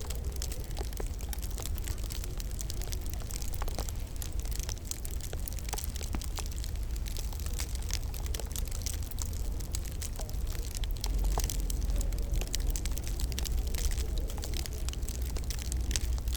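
Wood fire crackling: many small, irregular pops and snaps over a steady low rumble and hiss.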